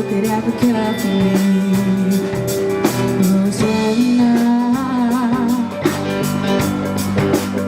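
Live rock band playing a song, with electric guitar, a steady drum beat and singing.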